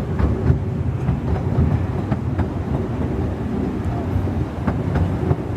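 Narrow-gauge heritage railway train running along the track: a steady rumble with irregular clicks from the wheels.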